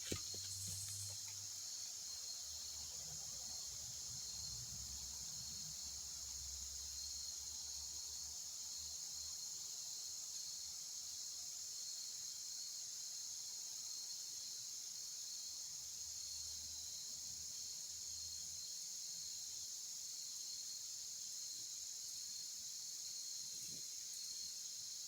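Steady, high-pitched chorus of insects such as crickets, a constant drone with a faint pulse.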